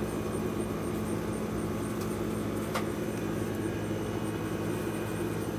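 A steady low machine hum at a constant level, with one faint click about halfway through.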